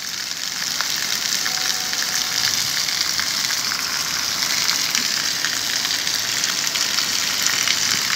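Heavy rain falling steadily onto a flooded street, a dense even hiss of countless drops splashing on the running water.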